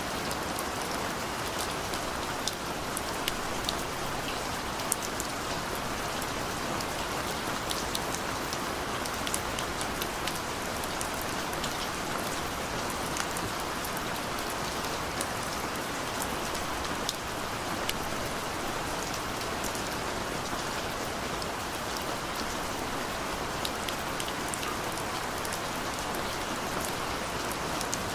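Steady rainfall, a constant hiss with many separate drops ticking sharply on a surface.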